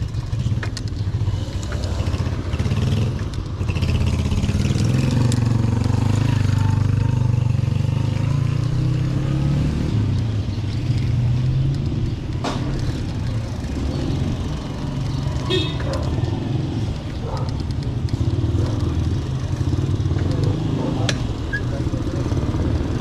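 Motorcycle running with a steady low rumble, with a few sharp clicks over it.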